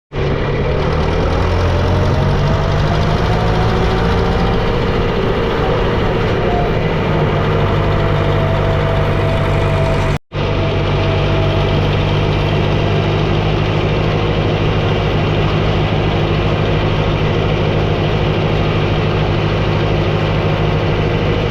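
Tractor engine running steadily at constant speed, with a brief break about halfway through.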